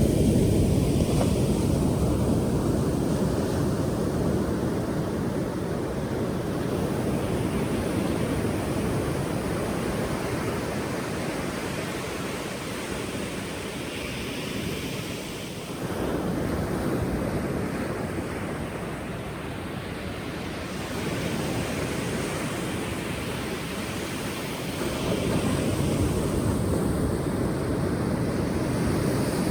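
Ocean surf: waves breaking and washing in a continuous roar, swelling louder at the start, again about halfway through and near the end.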